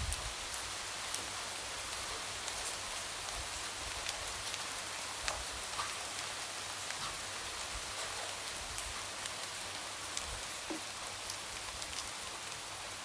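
Light rain falling steadily, a soft even hiss with scattered drops tapping on a window.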